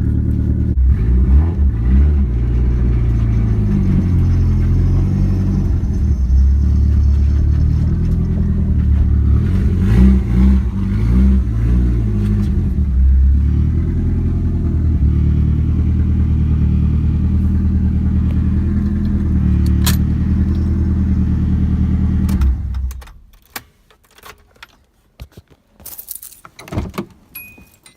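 Nissan 240SX's turbocharged SR20DET four-cylinder running just after starting from sitting unused for a while, with a few short revs. It is switched off about 22 seconds in, followed by a few light clinks and jangles.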